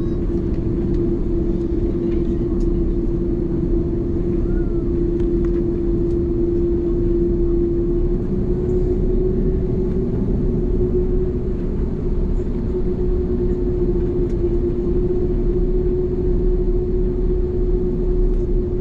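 Airbus A330 heard from inside the cabin: a steady low rumble of engines and air systems, carrying a constant hum that rises slightly in pitch about eight seconds in.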